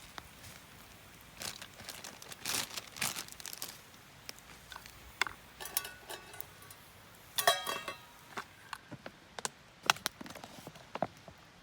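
Handling sounds: crinkling rustles and scattered light clicks and knocks, with a short ringing clink a little past halfway.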